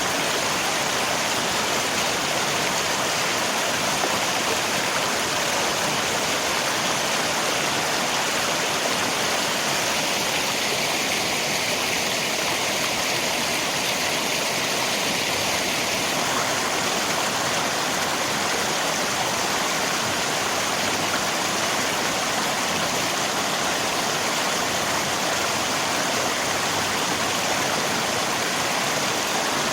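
Rain and river water: a steady, even rushing of flowing water with no pauses or changes.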